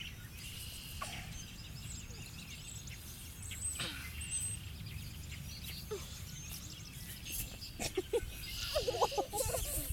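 Birds chirping and calling, many short scattered chirps, over a steady low rumble; near the end a cluster of short wavering calls comes in lower down.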